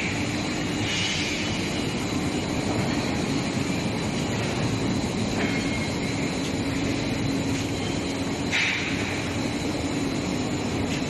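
Long-bar induction hardening and tempering line running: a steady hum and a high constant whine, with higher squeals starting about one, five and a half and eight and a half seconds in.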